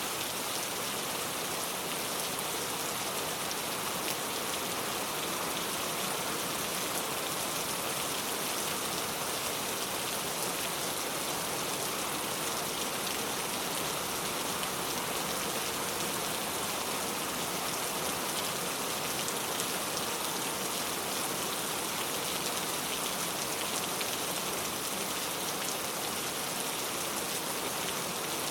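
Steady rainfall: a dense, even patter of raindrops landing on surfaces.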